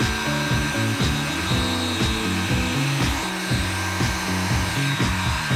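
Handheld electric hot air gun blowing steadily, a rushing hiss with a thin steady whine, over background music; the gun cuts off right at the end.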